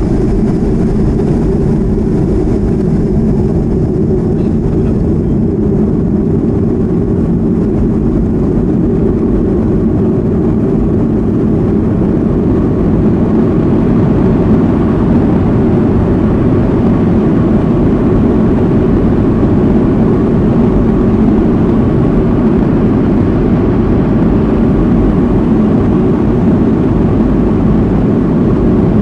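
Boeing 737-200 in flight, its Pratt & Whitney JT8D turbofans running with a steady, loud, deep engine and airflow noise heard on board, getting slightly louder about halfway through.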